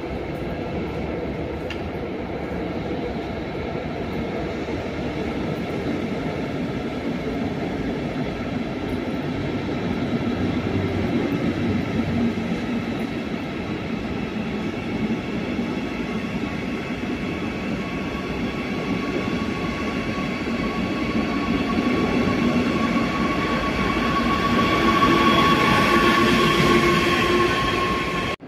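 Red double-deck regional push-pull train running past along the platform track, its wheels and carriages making a steady rumble that slowly grows louder. Near the end a steady high electric whine comes in and peaks as the last part of the train goes by.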